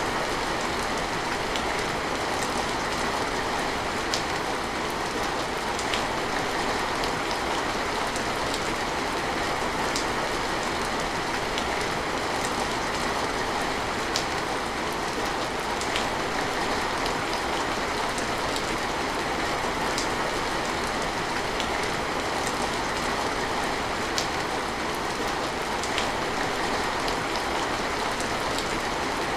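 Steady heavy rain falling, an even hiss with many sharp drip ticks scattered through it.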